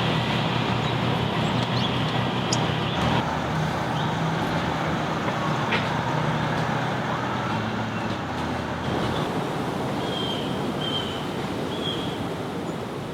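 Steady road traffic noise, with a vehicle's low hum that fades away after about nine seconds. A few short high chirps come near the end.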